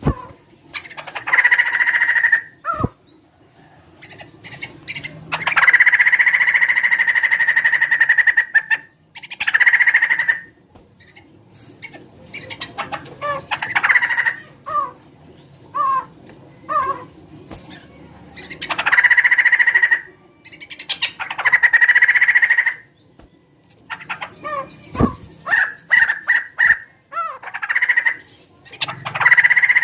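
Poksay (laughingthrush) calling: short sharp notes alternating with several long, harsh calls of two to three seconds each, a voice likened to a chicken's.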